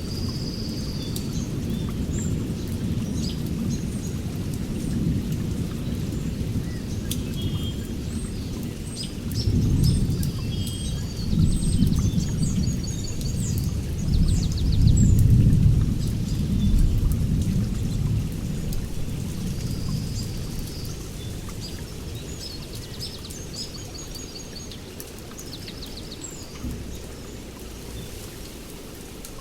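Rainstorm with rolling thunder: a deep rumble that builds through the middle and then dies away, while rain falls steadily. Birds chirp and trill over it.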